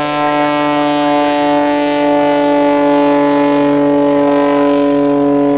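Light propeller airplane's piston engine running at a steady speed close by, a loud even drone that holds one pitch.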